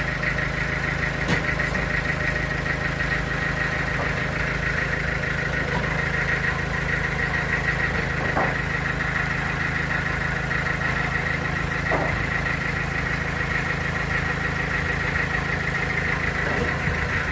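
Band sawmill machinery running steadily: a low engine hum with a constant high whine above it, broken by a few faint knocks.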